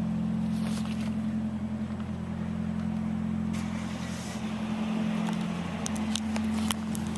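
Vehicle engine idling steadily, a low even hum, with a few light clicks near the end.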